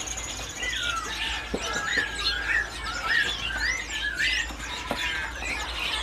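Caged songbirds chirping and calling over one another, with a run of short, repeated wavering whistled notes in the middle.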